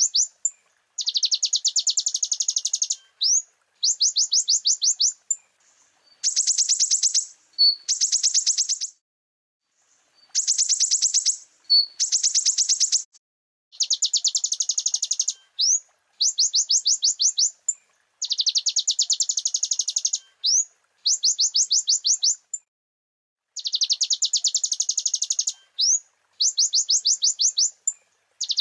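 Olive-backed sunbird (konin) singing: high, fast trilled phrases of rapid rising notes, each lasting a second or two, repeated with short pauses.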